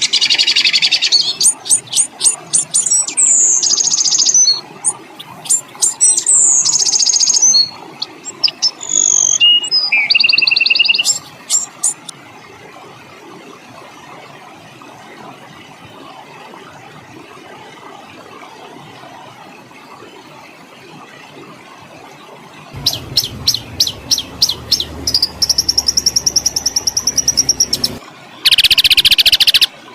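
Songbird song: fast runs of sharp, rapidly repeated high notes and whistled phrases. It breaks off for about ten seconds of faint hiss in the middle, then resumes with rapid note series and a loud dense burst near the end.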